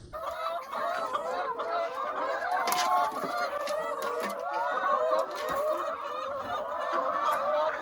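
A flock of chickens clucking and calling, many overlapping calls at once without a break.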